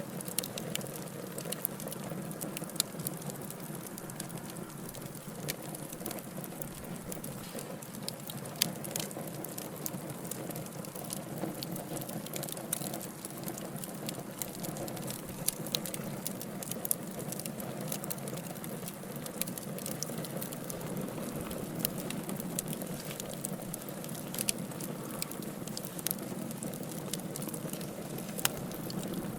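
Wood fire burning in a fireplace: logs crackling with frequent sharp pops and snaps over a steady low rush of the flames.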